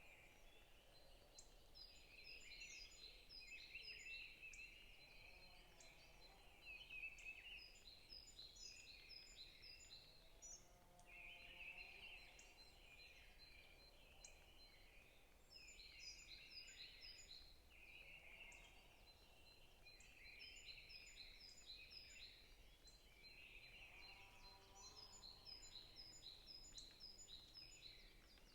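Faint forest birdsong. Every few seconds one bird sings a phrase of quick, high, descending notes over continuous twittering chatter from other birds.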